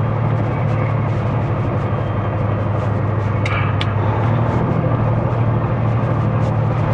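Semi truck's diesel engine running steadily, heard from inside the cab as a low drone. Two short clicks come about halfway through.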